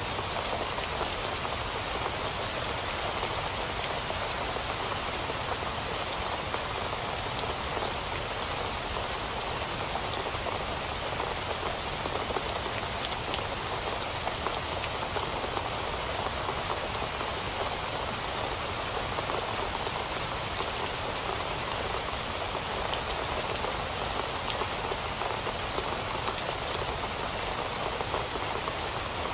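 Steady rainfall, drops pattering evenly on a surface with no let-up and no thunder.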